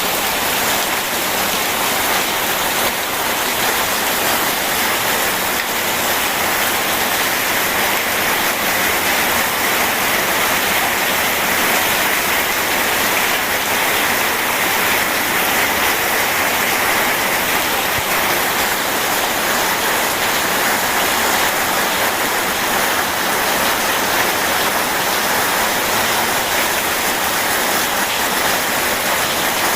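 Steady rain together with a rushing river: an even, unbroken hiss of water.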